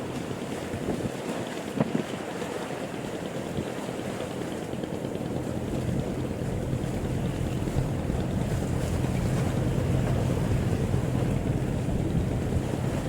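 Wind buffeting the microphone over the wash of the sea aboard a boat, with a low steady drone that grows louder from about halfway through.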